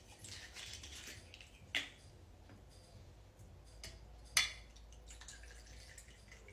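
Rum being poured into a cocktail shaker, a faint trickle, with two sharp clicks about two seconds and four and a half seconds in.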